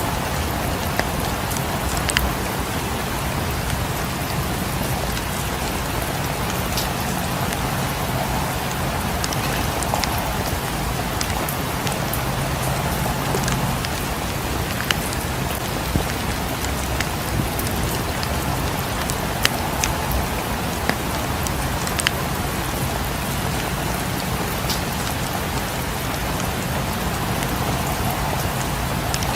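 Steady rain falling, with scattered sharp ticks and pops every second or two.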